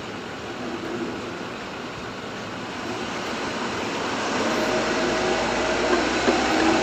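Road and engine noise inside a motorhome cab while driving, growing steadily louder over the second half.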